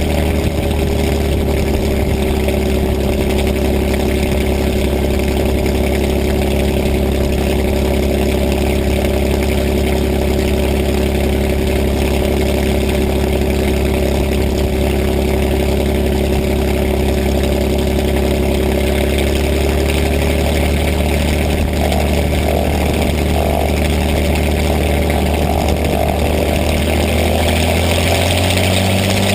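P-51 Mustang's liquid-cooled V-12 engine idling steadily. Its pitch dips slightly past the middle and starts to rise just before the end.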